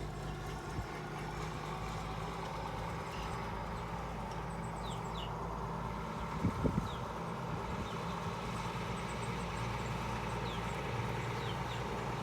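An engine running steadily at an even pitch, with short high bird chirps several times and a brief low knock about six and a half seconds in.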